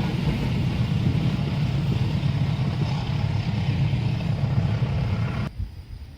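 Train passing close by: a loud, steady low rumble of locomotive and wheels on the rails, which cuts off abruptly about five and a half seconds in.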